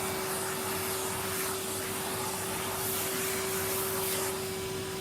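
Henry cylinder vacuum cleaner running steadily, a constant rushing hum with one steady tone through it.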